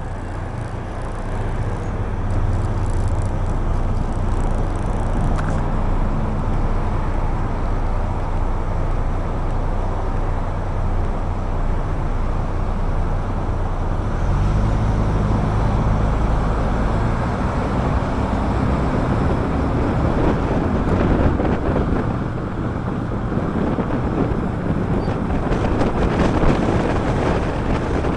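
Car engine and road noise from a car in traffic: the engine runs low and steady at first, then revs up from about halfway through as the car pulls away and gathers speed, with tyre and wind noise growing toward the end.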